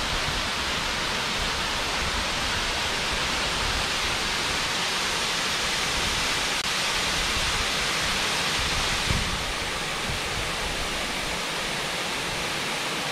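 Waterfall, a steady rushing roar of falling water. A brief low thump about nine seconds in.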